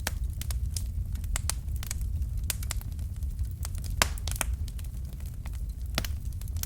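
Wood fire crackling and popping in irregular sharp snaps over a steady low rumble, with one louder pop about four seconds in.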